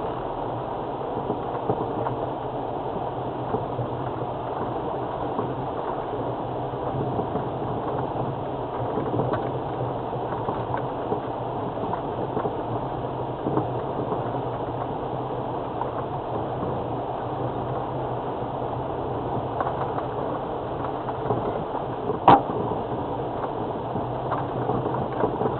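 Land Rover Freelander TD4's four-cylinder diesel engine running steadily, heard from inside the cabin. A single sharp click sounds near the end.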